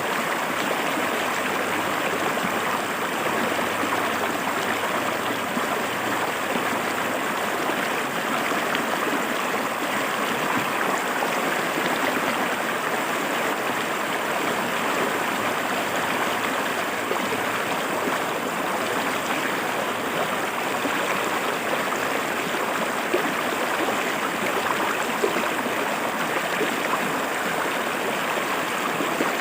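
River water flowing and splashing over rocks: a steady, even rush of stream water.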